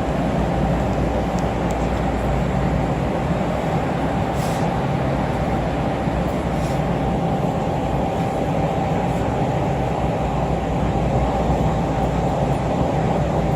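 Steady rumble and hum of a Los Angeles Metro light-rail train, with a constant tone held underneath and no change throughout.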